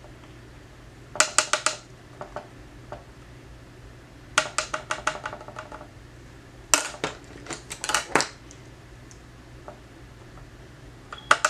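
Clusters of quick, sharp hard taps, a handful of strikes per burst with a brief ringing tone, recurring four times a few seconds apart. This fits a makeup brush being tapped against an eyeshadow palette or its container while blending.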